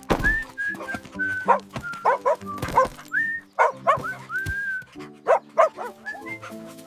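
A dog barking and yipping many times in short bursts, over light background music.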